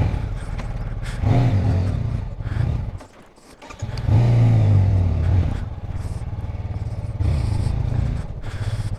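Motorcycle engine at low speed, pulling in two swells of throttle with a brief near-quiet lull about three seconds in as the throttle is shut.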